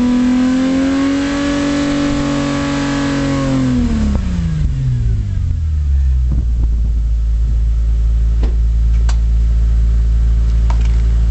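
Car engine running through a JASMA aftermarket exhaust, held at raised revs, then dropping back about four seconds in and settling into a steady low idle. A few faint ticks sound over the idle near the end.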